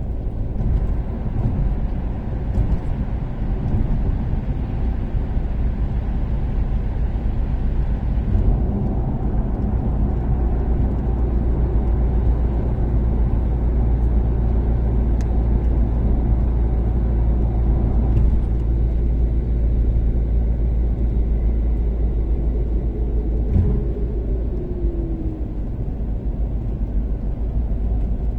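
Toyota Caldina's turbocharged 3S-GTE four-cylinder engine and road noise while cruising on an expressway: a steady low rumble, with a brief tone that falls in pitch near the end.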